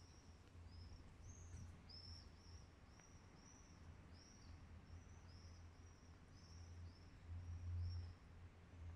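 A small songbird calling faintly with a quick series of short, high chirps, about two a second, that stop near the end. Under it runs a low rumble that swells near the end.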